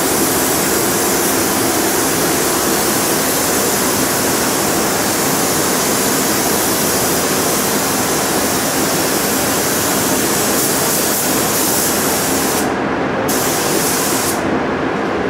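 Paint spray gun hissing steadily over a lower steady rush of air in a paint booth; the hiss cuts out briefly near the end and again just before the end, as the trigger is let go.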